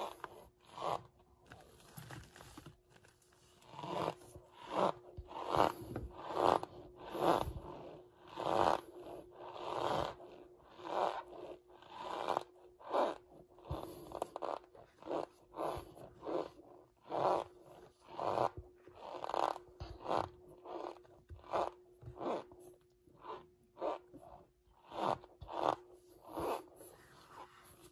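Someone chewing and crunching chunks of cornstarch close to the microphone, in repeated crunches about one or two a second, with a faint steady hum underneath.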